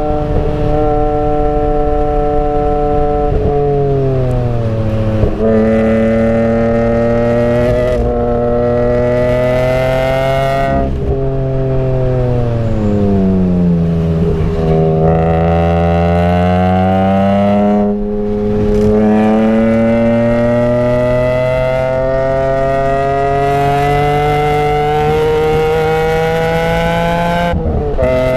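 BMW E46 M3's 3.2-litre S54 straight-six heard from inside the cabin at track speed. The engine note falls twice as the car slows for corners, then rises steadily under full throttle through the second half, with a gear change just before the end.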